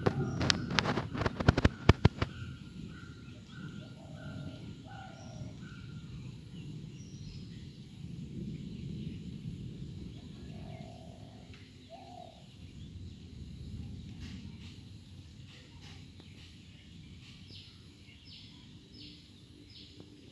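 Birds calling in short repeated notes, about two a second at first, then a few scattered calls and some higher notes near the end, over a low background rumble. A rapid run of loud clicks or knocks in the first two seconds is the loudest sound.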